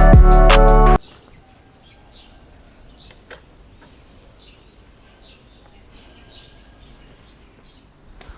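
Music with a drum beat cuts off suddenly about a second in. Faint outdoor ambience follows, with scattered short bird chirps.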